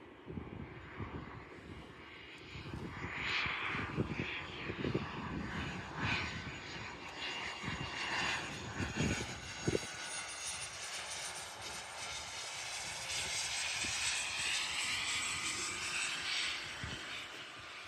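Airliner's engines passing on its landing approach: a steady roar with a whine, growing louder and then easing near the end. Wind buffets the microphone in the first half.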